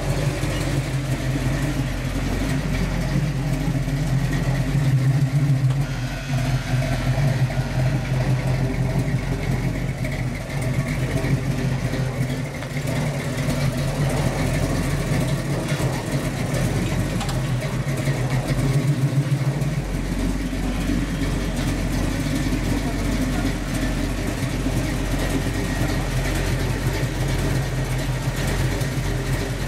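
1969 Ford Mustang Mach 1's V8 running at low speed and idling, a steady engine note with small rises and falls in revs.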